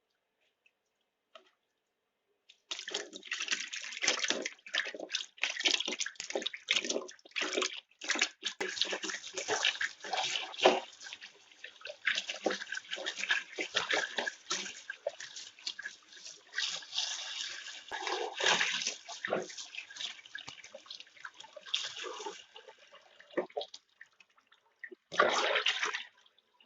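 Water running and splashing in irregular bursts, as of food being washed by hand in a sink or bowl. It starts about three seconds in, stops near the end, then comes back in one short final burst.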